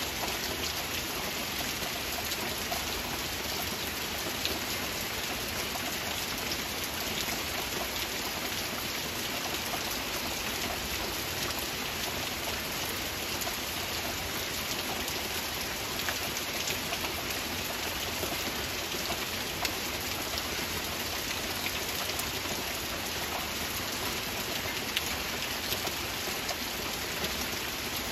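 Steady rainfall: a dense, even hiss of rain with countless small drop impacts ticking through it.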